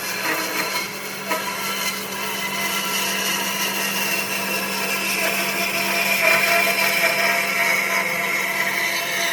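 Electric power tool running on wood, a steady motor hum with a high whine that slowly drops in pitch over several seconds.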